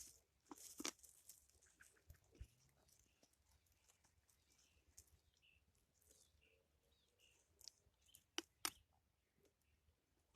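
Very faint footsteps crunching and clicking as someone walks on a forest path, with two sharper clicks near the end.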